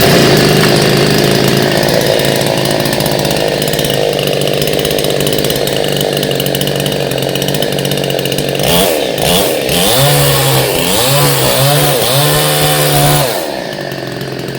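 Freshly assembled chainsaw running steadily. Its engine is revved up and down several times in the later part, then drops back to a lower idle near the end.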